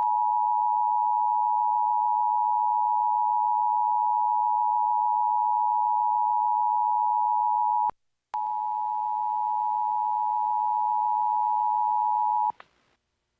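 Emergency Alert System attention signal: a steady two-tone alarm pitched near 1 kHz. It sounds for about eight seconds, stops briefly, then sounds again over a faint hiss for about four more seconds before cutting off near the end.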